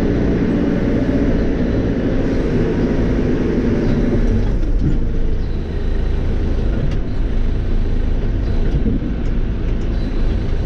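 Cat 430E backhoe loader's diesel engine running steadily under working load. The engine note is strong for the first four seconds or so, then eases back.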